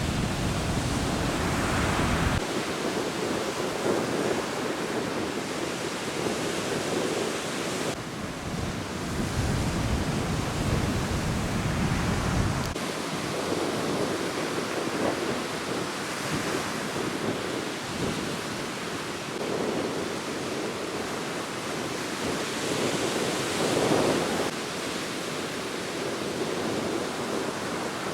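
Surf washing up a beach in strong wind, swelling and easing. Wind buffets the microphone in heavy rumbling gusts for the first couple of seconds and again from about eight to thirteen seconds in.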